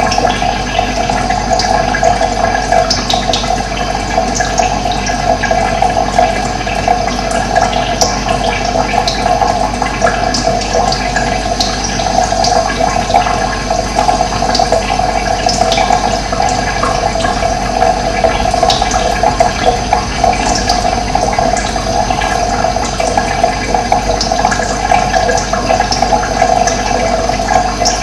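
Running water rushing steadily, with brief high bird chirps scattered through it.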